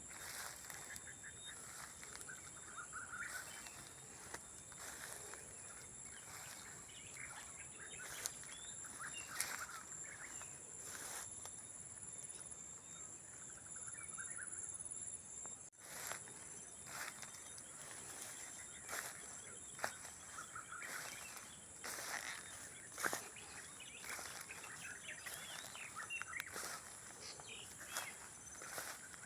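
Faint nature ambience: a steady high-pitched insect chorus typical of crickets, with scattered short bird chirps and occasional sharp clicks. The chorus drops out for an instant about halfway through.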